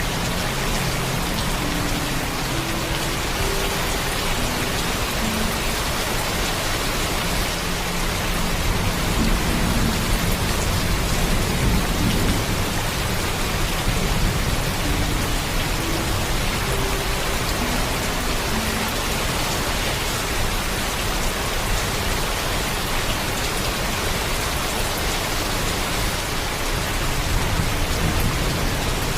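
Steady heavy rain, a continuous even hiss, with a low rumble underneath.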